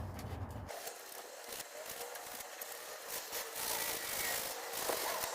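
Coarse sandpaper rubbed by hand over oak in repeated strokes, scraping old varnish off the wood.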